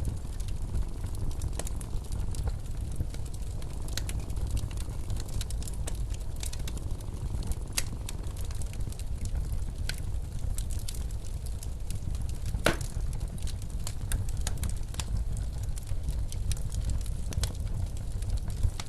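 Fireplace crackling, with irregular sharp pops over the steady low rumble of blizzard wind. The loudest pop comes about two-thirds of the way through.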